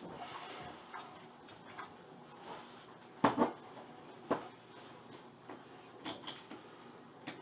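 Handling clatter at a toilet under repair: a few sharp knocks and clicks, the loudest a quick pair about three seconds in, another a second later, and lighter taps near the end.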